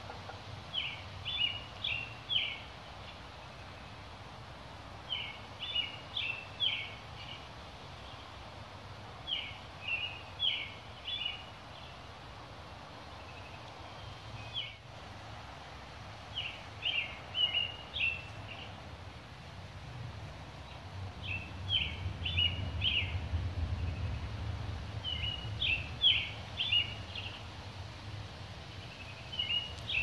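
A songbird singing a short phrase of a few quick high notes, repeated about every four seconds, over a steady background hiss. A low rumble swells about twenty seconds in and fades a few seconds later.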